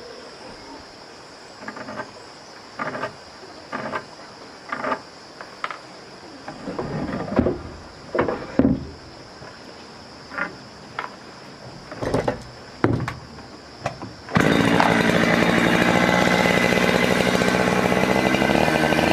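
Short, separate knocks or scrapes about once a second over a faint steady high hum. About fourteen seconds in, a two-stroke chainsaw comes in suddenly, loud, and runs steadily.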